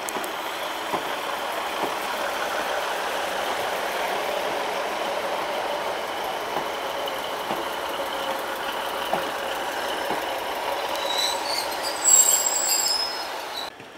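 Northern diesel multiple unit running past along the platform, a steady rumble of engine and wheels on rail. About eleven seconds in, high-pitched wheel squeal rises over it. It cuts off suddenly near the end.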